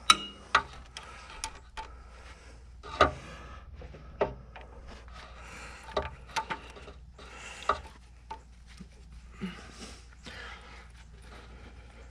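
A string of sharp clicks and knocks, about ten at irregular spacing, as hydraulic hose quick-connect couplers are pushed and worked onto a stubborn fitting on the tractor.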